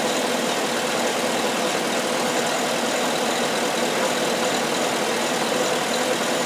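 Steady mechanical running noise, even and unchanging, with a faint constant hum.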